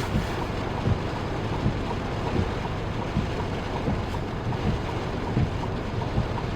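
Steady rumble and hiss inside a car, with wind noise on the microphone and small low knocks here and there.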